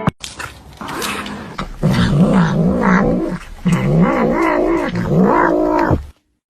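Domestic cat yowling in several long calls that waver up and down in pitch, after a short noisy stretch at the start; the calls stop abruptly near the end.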